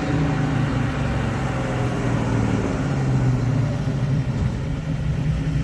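A car engine running at low speed, a steady low drone.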